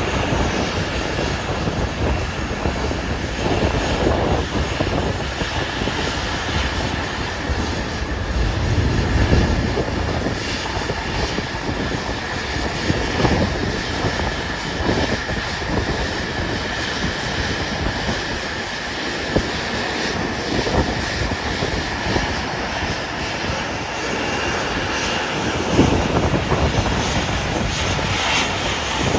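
Jet airliner engine noise with a steady high whine that fades out about two-thirds of the way through, under strong wind buffeting the microphone in irregular gusts.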